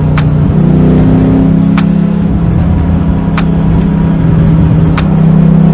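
Ford Coyote 5.0 V8 of a Factory Five Type 65 Daytona coupe heard from inside the cabin, running under steady load on track and a little louder in the second half. A sharp click comes about every second and a half.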